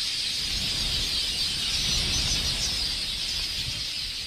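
A large flock of red-billed queleas chattering, a dense, continuous twittering of many birds at once.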